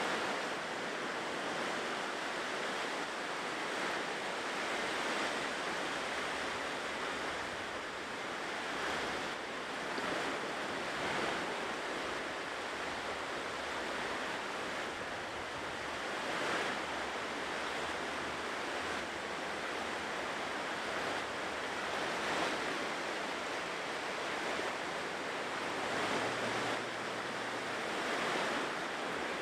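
Ocean surf washing onto a shore: a steady rush of breaking waves that swells briefly every few seconds.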